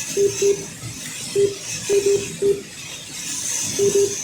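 Lap-counter beeps from a slot-car race timing system, short and all at one pitch, singly and in quick pairs and triples as HO-scale trucks cross the timing light. Under them is the high whir of the trucks' small electric motors on the track, swelling and fading as the pack circles the oval.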